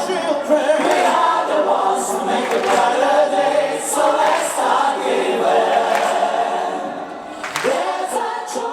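Background music: a choir singing sustained chords, easing down near the end.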